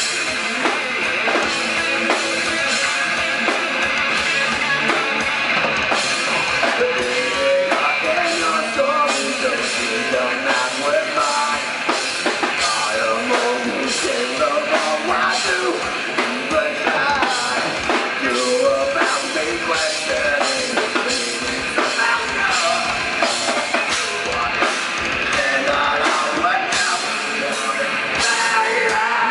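Rock band playing, with a drum kit keeping a steady beat under electric guitar.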